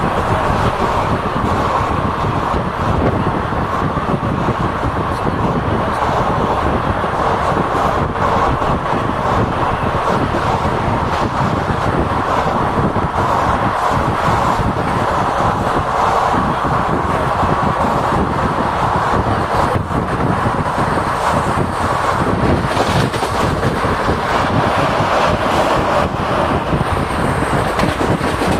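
Steady, loud running noise of a moving vehicle heard from on board: a continuous rumble and rushing hiss with no breaks.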